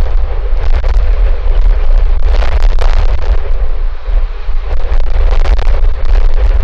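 Strong wind buffeting the outdoor camera microphone: a loud, continuous low rumble with gusts rising and falling.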